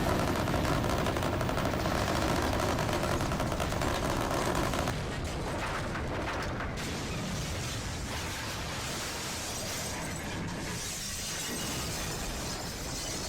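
Die-cast Hot Wheels trucks rolling down a plastic track, a dense steady clatter of small wheels and bodies rattling on the track joints. It gets a little quieter after about five seconds.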